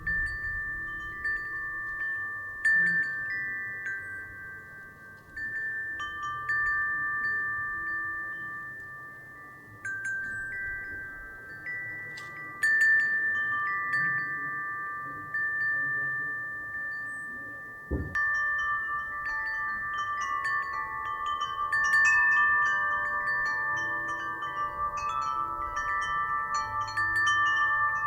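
Wind chimes struck by the breeze, ringing out several clear high pitches that sound in overlapping, fading strokes every second or two. About two-thirds of the way through a sharp knock sets them off, and after it more tones ring together and more busily.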